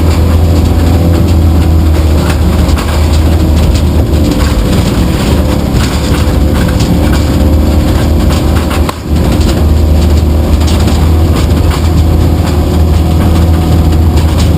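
Truck engine and road noise from a moving truck: a loud, steady low rumble that dips briefly about nine seconds in.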